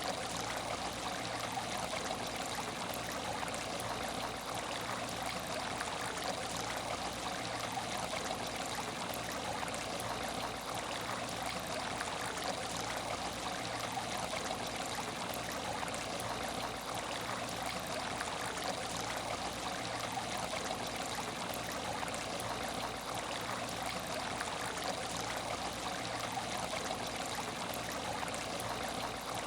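Water in an empty aquarium tank trickling and splashing steadily, with no change, over a faint steady low hum.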